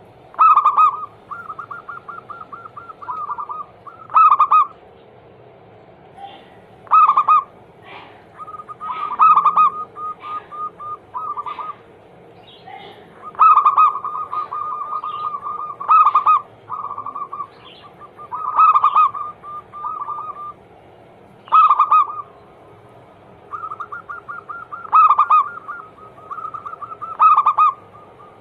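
Zebra doves (perkutut) cooing. Phrase after phrase, each a loud note followed by a rapid stuttering run of softer notes, about every two to three seconds.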